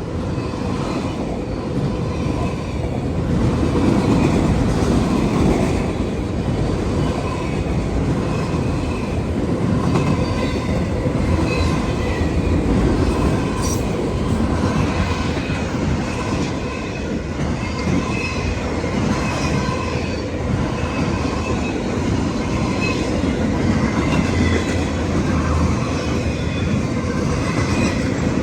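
CSX autorack freight train cars rolling past on the rails with a steady, loud rumble, and faint high-pitched wheel squeals coming and going.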